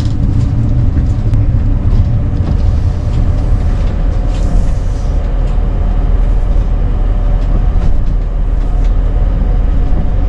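RV being driven, heard from inside the cab: steady low engine and road rumble with small rattles and clicks.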